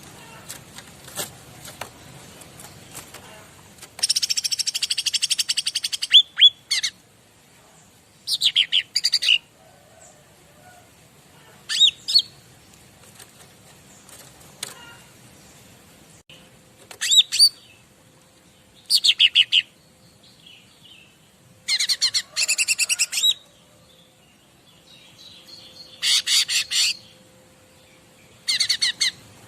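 Cica ranting songbird singing: short phrases of very rapid, high-pitched trills and sharp chirps, each about a second long, repeated with pauses of a second or more between them.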